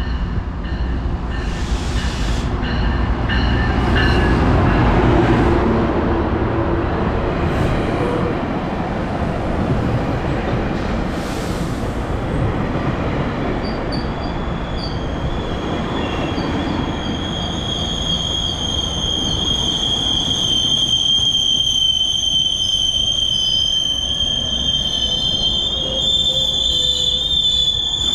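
GO Transit double-decker commuter train arriving at a station platform: the locomotive's deep rumble as it comes past, then the coaches rolling by. About halfway through, a steady high wheel squeal sets in and grows as the train slows to a stop.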